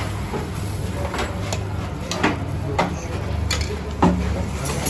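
Scattered clinks and knocks of kitchen utensils and dishes, about five separate strikes, the loudest near the end, over a steady low hum.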